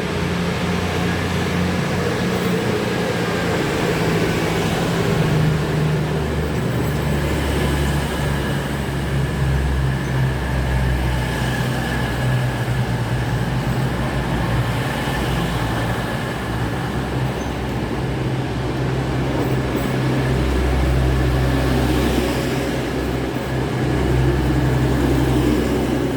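East Midlands Railway Class 222 Meridian diesel multiple unit, its underfloor diesel engines running with a loud, steady low drone that swells and eases a little.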